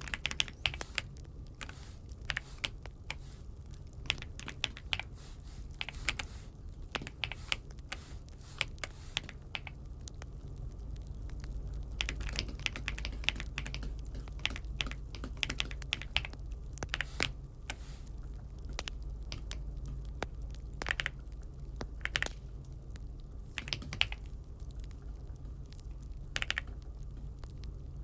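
Keystrokes on an Aula F75 mechanical keyboard, typed in irregular bursts of clicks with brief pauses between them.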